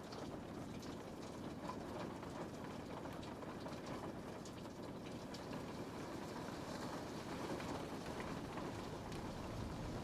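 Steady rain falling on a window pane, a dense patter with many small drop ticks over a low rushing wash.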